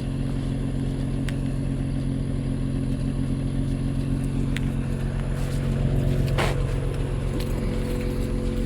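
A vehicle engine idling steadily, with a few light clicks and one sharp clank about six and a half seconds in.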